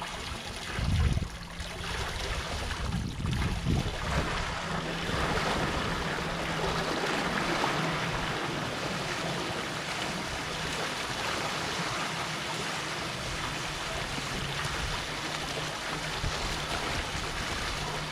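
Incoming tidewater pouring over the top of an edge, a steady rush of water that fills out a few seconds in. Wind buffets the microphone in the first few seconds.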